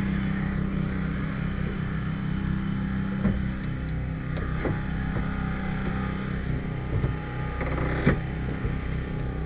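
An engine runs steadily, with a handful of sharp metallic clanks and knocks about three, four and a half, seven and eight seconds in.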